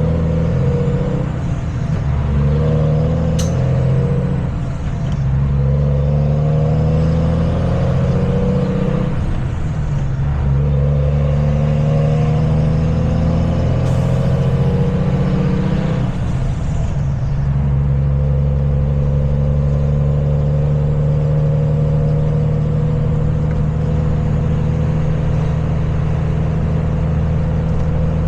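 Truck engine pulling up through the gears: the engine note climbs, breaks off briefly at each shift about five times, then settles to a steady cruise from a little past halfway.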